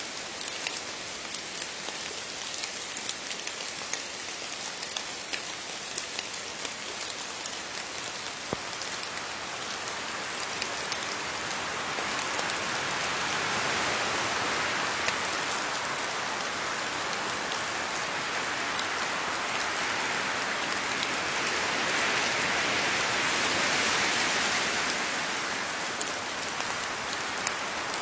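Steady rain falling on leaves, a dense patter of drops that swells heavier twice and then eases.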